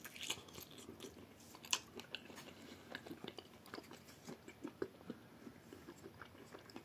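A person chewing a bite of grilled sausage close to the microphone: irregular soft mouth clicks and crunches, with one louder crunch a little under two seconds in.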